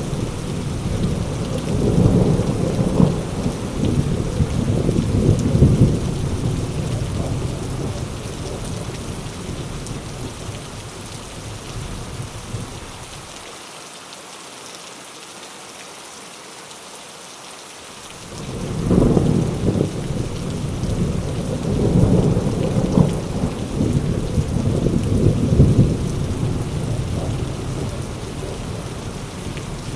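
Heavy rain falling steadily with two long rolls of thunder. The first rumble fades out over the first ten seconds or so, and a second breaks in about two-thirds of the way through, then dies away near the end.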